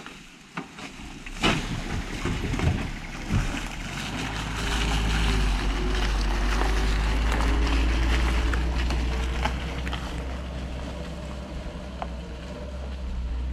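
Suzuki Jimny 4WD driving, its engine note faint under a heavy low wind rumble on the microphone, with a few knocks in the first few seconds.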